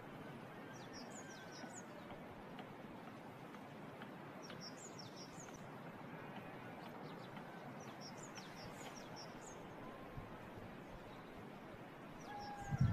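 Small songbirds chirping in short clusters of high twitters a few seconds apart, over a faint steady outdoor hiss of countryside ambience. A louder low-pitched sound starts just at the end.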